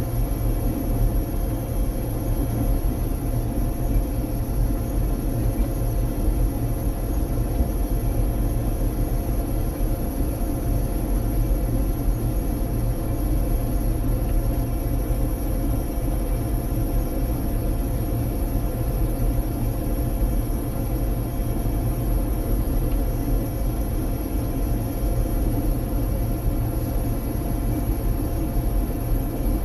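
Tractor engine running at a steady speed: a constant low rumble with steady tones above it, unchanging throughout.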